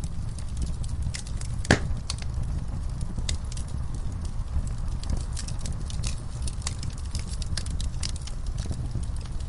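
Wood fire burning in a fireplace: irregular crackles and snaps over a steady low rumble, with one louder pop about two seconds in.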